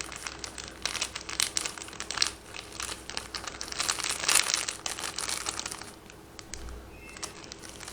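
Plastic Indomie seasoning sachets crinkling and tearing as they are handled and opened, a busy run of crackly rustles that thins out about six seconds in.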